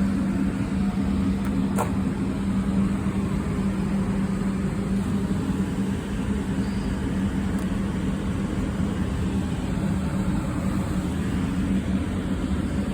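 Air-conditioning unit running: a steady low drone with a fan's even rushing noise, and a single click about two seconds in.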